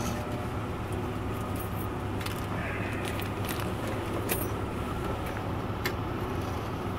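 Car engine idling steadily, heard from inside the cabin, with a few short sharp clicks of handling over it.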